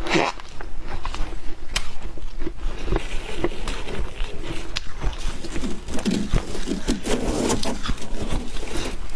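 Close-up chewing and crunching of ice in the mouth, with many sharp crackles and crunches.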